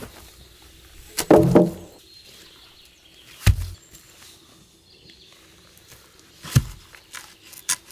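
A few separate knocks and thumps from handling the log bench's parts: the loudest cluster about a second in, then single sharp knocks about three and a half and six and a half seconds in, with small clicks near the end.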